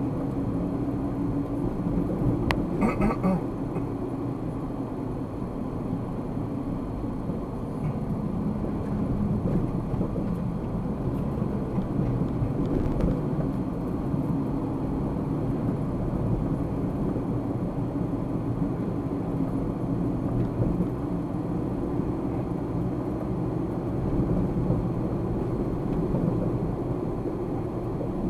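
Steady engine and road noise of a car driving, picked up by a dashcam microphone, with a low engine hum running under the tyre noise. A brief sharper sound about three seconds in.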